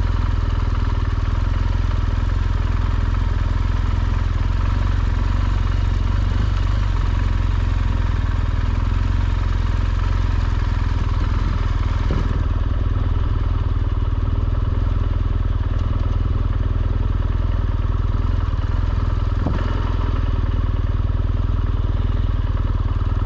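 BMW R1200GSA motorcycle's flat-twin engine running steadily, holding an even pitch.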